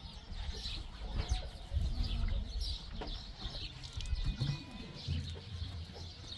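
Birds chirping in short, scattered calls over a low rumble.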